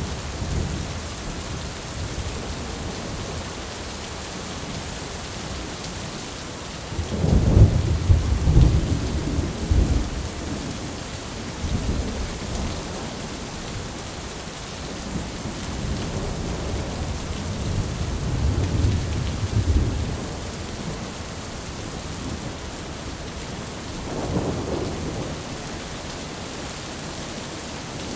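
Steady rain drumming on a tin roof, with rolls of thunder rumbling low three times: a long heavy roll about a quarter of the way in, a longer softer one past the middle, and a short one near the end.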